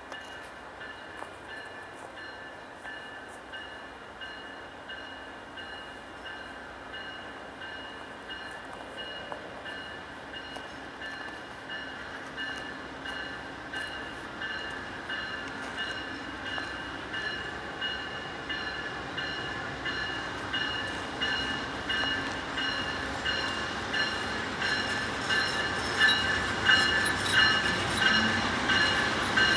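A train's wheels rolling over the rails, with rhythmic clicking of wheels over rail joints and a steady high-pitched squeal, growing steadily louder as the train draws closer.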